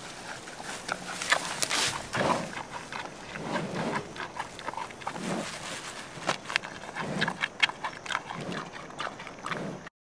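Giant panda eating bamboo: sharp crunches and snaps of the stalks, with low munching sounds about every second in between.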